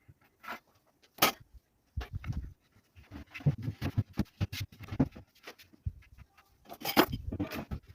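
Irregular knocks, clicks and low thumps, like objects being handled and set down, with denser clatter in the middle and a sharp click about seven seconds in.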